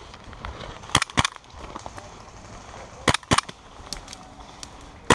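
Airsoft guns firing single shots: two quick pairs of sharp cracks about two seconds apart, then one more at the end.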